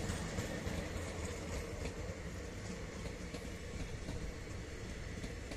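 Indian Railways express passenger coaches rolling past on the adjacent track: a steady rumble of steel wheels on rail with faint clicks from the rail joints, easing slightly in level.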